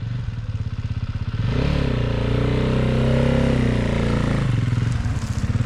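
Dirt bike engine revving hard as a rider attempts a steep climb: the pitch rises about a second and a half in, holds high, then drops back near the end.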